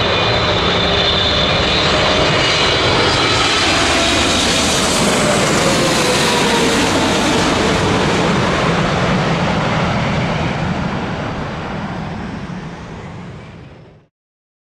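Jet airliner engines running as the plane passes close by, a loud steady roar with a faint whine slowly falling in pitch. It fades and then cuts off abruptly near the end.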